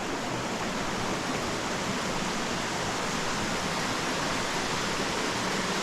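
Creek water rushing, a steady unbroken wash.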